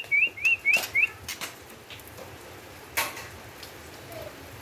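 White-rumped shama giving a quick run of about five rising whistled notes, followed by a few sharp clicks or taps.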